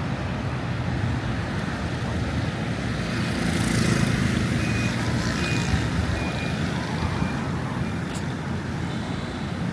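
Busy street traffic noise that swells as a vehicle passes about four seconds in, with a few short, evenly spaced high beeps in the middle.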